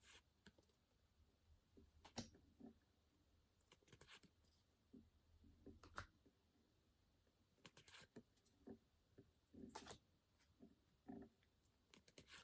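Faint, scattered clicks and short rustles of Pokémon trading cards being handled and flipped through, over near-silent room tone.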